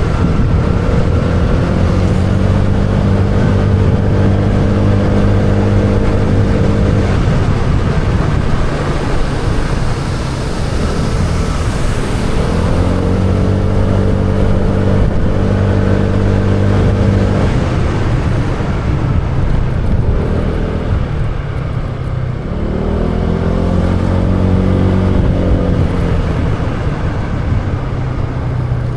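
Motorbike engine running while riding, with wind rushing over the microphone. The engine note holds steady, fades out twice and picks back up, bending up and down in pitch as it returns.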